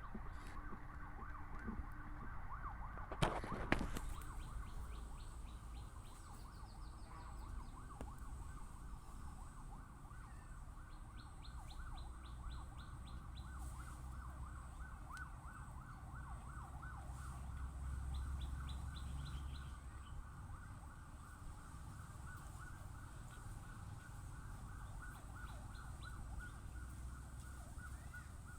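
Outdoor ambience of continuous, evenly repeating chirping, with short higher trills now and then over a low rumble. Two sharp knocks sound a few seconds in.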